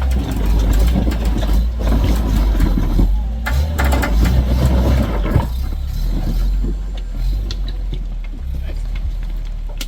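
Off-road 4x4 truck engine running under load while the stuck truck is pulled free over a log. It is loud and busy for about the first five seconds, then settles to a steadier, quieter run.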